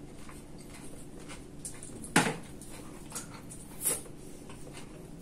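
Close-up chewing of sushi: scattered wet mouth clicks and smacks, with one sharp, much louder click about two seconds in.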